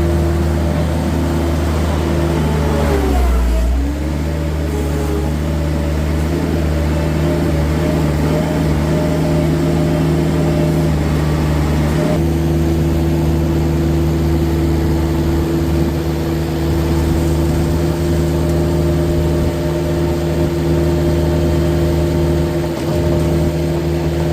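Vehicle engine running steadily with a constant hum. About three seconds in its pitch briefly drops and climbs back, as when the vehicle slows and picks up speed again.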